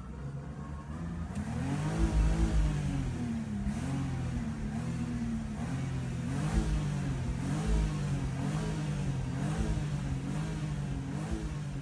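BMW E36's engine revving hard under throttle, heard from inside the cabin, climbing toward 6,000 rpm. Its note rises steeply about two seconds in, then repeatedly dips and climbs again about once a second.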